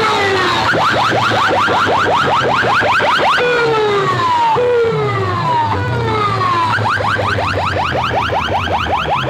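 Electronic siren-and-alarm sound effect blasted through a large competition sound system. Runs of rapid rising chirps, about ten a second, alternate with a few slow falling wails, over a steady low drone. The chirp runs come about a second in and again about two-thirds of the way through.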